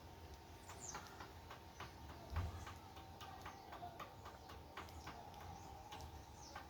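Small birds pecking seed on a wooden feeder board: irregular sharp taps, several a second, with a short high falling chirp about a second in and a low thump about two and a half seconds in.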